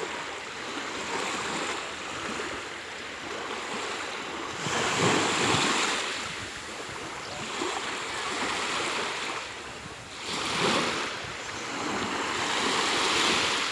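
Sea of Azov waves washing onto the shore: a steady hiss of surf with three louder surges as waves break.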